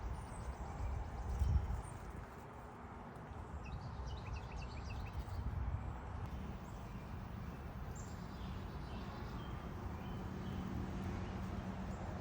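Outdoor wind noise rumbling in gusts, loudest about a second and a half in, with faint bird chirps about four to five seconds in.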